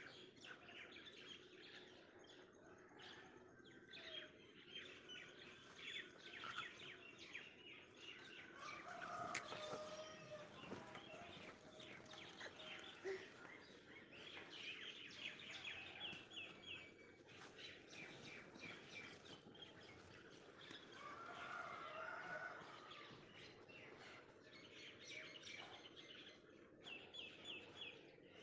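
Faint birdsong: small birds chirping and trilling repeatedly, with a few lower calls about ten seconds in and again a little past the twenty-second mark.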